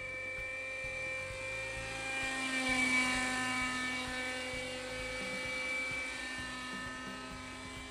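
Kyosho Nexus model helicopter's nitro glow engine running at a steady high speed, with its rotor, louder and briefly shifting in pitch about three seconds in.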